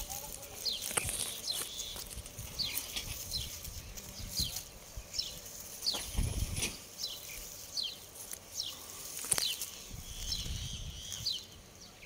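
A small bird calling over and over, a short, high chirp that drops in pitch, about once a second. Occasional knocks and a low rustle come from the leaves being pushed aside.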